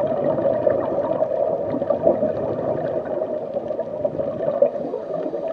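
Steady underwater-style water ambience: a continuous muffled wash of water with faint scattered clicks.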